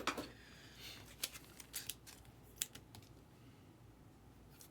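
An irregular run of light, sharp clicks, about a dozen, bunched mostly in the first three seconds.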